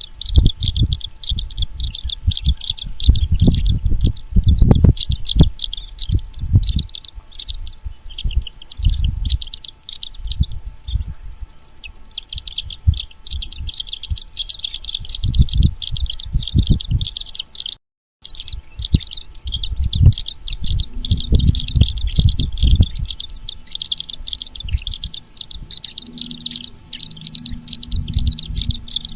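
Birds chirping in rapid, continuous high calls, with irregular low thumps and rumbles underneath. The sound drops out completely for a moment just before halfway.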